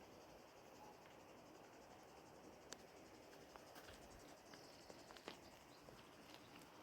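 Near silence, with faint insects chirring in a fine steady pulse and a few soft clicks near the middle.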